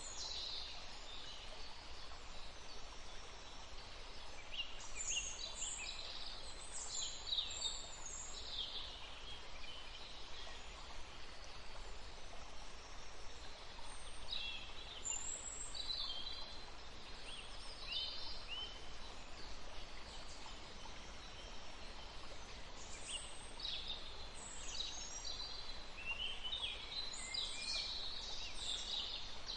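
Small songbirds singing in scattered runs of quick high chirps and trills over the steady rush of a forest stream.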